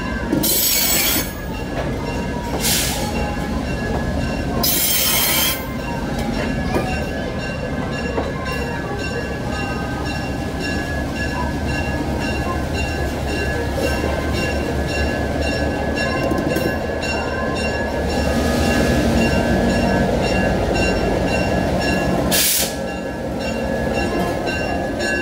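Passenger train rolling slowly past at close range: a steady rumble of steel wheels on the rails with thin high squeals from the wheels, broken by several brief loud hissing bursts near the start, around five seconds in and near the end. The diesel locomotive passes near the end.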